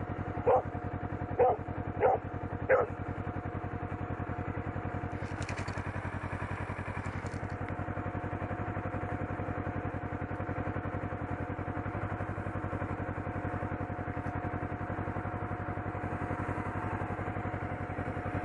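Motorcycle engine idling steadily, while a dog barks four times in the first three seconds and then falls quiet.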